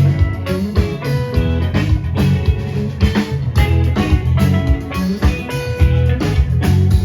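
Live rock band playing an instrumental passage: guitar over bass and drums, with a steady beat.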